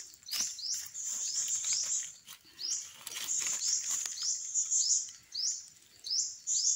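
A bird repeats a short high chirp about three times a second over a steady high-pitched hiss. A few rustles and clicks of dry leaves come as a mushroom is pulled from the litter.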